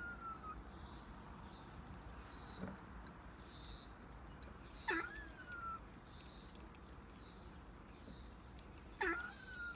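A pet animal's cute little calls: a quick squeak gliding into a short falling whine, heard as one trailing off at the start and two more, about five and nine seconds in.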